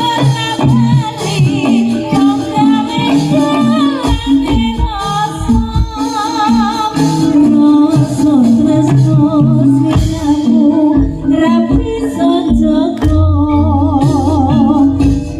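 Live Javanese jaranan music: drums and a repeating pattern of low pitched percussion under a high, wavering melody line with heavy vibrato.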